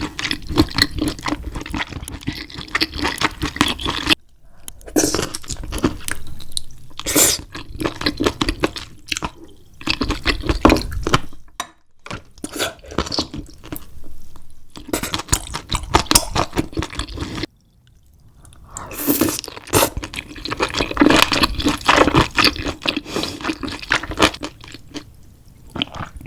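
Close-miked eating of a saucy seafood boil: wet squishing, slurping and chewing with many small clicks and crunches. The sound breaks off sharply three times, as at cuts between clips.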